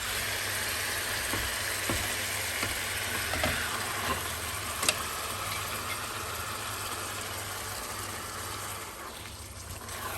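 Marinated chicken with onions and spices sizzling as it fries in ghee in a pan, with a low steady hum underneath and a couple of sharp clicks.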